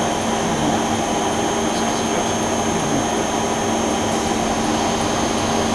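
Monforts KNC 602 CT CNC lathe running at idle after power-up: a steady whirring machine hum with a constant low tone and a faint high whine.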